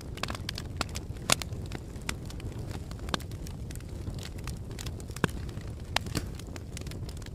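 Fire crackling: a steady low rumble of burning with frequent sharp pops and snaps, the loudest about a second in and again about five seconds in.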